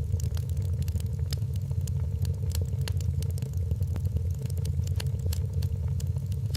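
Wood fire crackling, with many sharp irregular pops and snaps over a steady low rumble of the flames.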